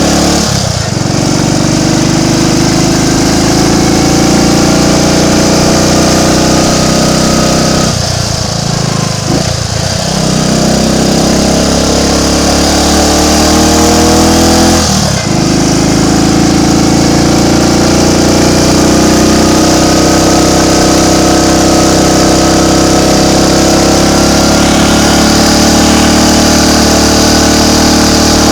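Triumph Tiger Cub's small single-cylinder four-stroke engine pulling on the road, its note climbing steadily in pitch. It drops back briefly near the start, twice around eight to ten seconds in, and again at about fifteen seconds, then climbs again each time. A steady hiss runs underneath.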